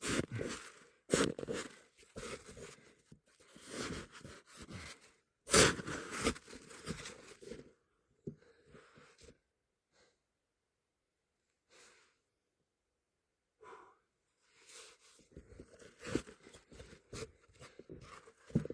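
Hard, icy snow being dug and scraped: irregular crunching, scraping strokes, with a pause of several seconds about halfway through before they start again.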